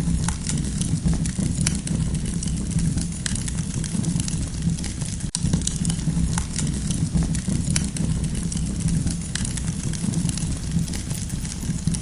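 Campfire burning, with dense, irregular crackles and snaps of burning wood over a steady low rumble. The sound drops out for a split second about five seconds in.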